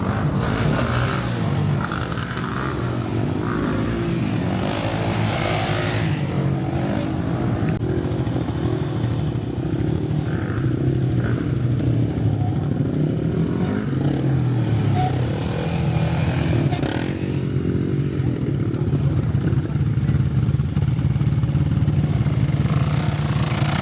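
ATV engine running and revving, its pitch rising and falling as the throttle is worked.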